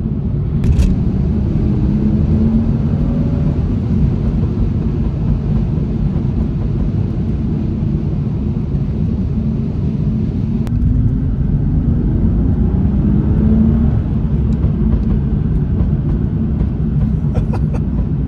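BMW 435i's stage-one-remapped turbocharged straight-six pulling hard under acceleration, heard inside the cabin: the engine note climbs twice, near the start and again about two-thirds in. A few sharp exhaust pops and bangs, clustered near the end.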